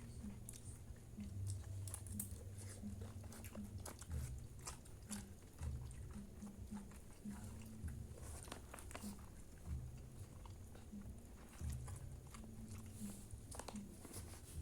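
A person chewing and eating food close to the microphone, with many small mouth smacks and clicks.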